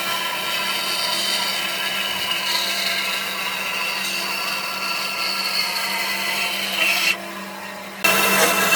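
An electric power tool running steadily while working wood, with a high whine over a rasping hiss. It cuts out for about a second near the end, then starts again.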